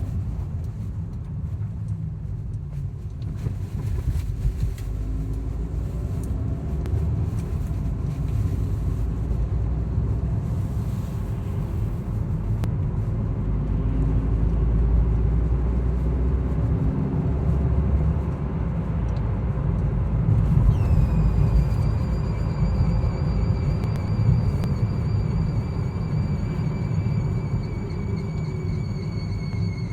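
A Skoda Yeti 1.8 (CDAB engine) driving with a steady low rumble. About two-thirds of the way in, a high whistle starts suddenly and slowly sinks in pitch: the strange whistle this car makes on the move in frost while still cold.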